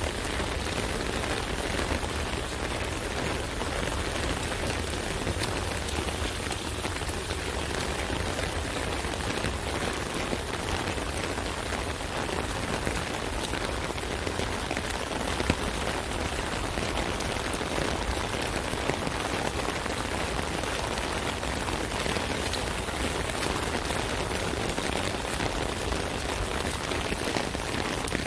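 Steady rain falling on an umbrella canopy: a dense, even patter of drops with a low rumble beneath and now and then a single louder drop.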